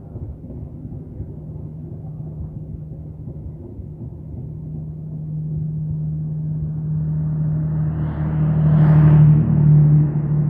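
Passenger train coaches rolling past close by: a steady low rumble of wheels on rail with a low droning hum. It grows louder and peaks with a rushing noise about nine seconds in, as the last coach goes by.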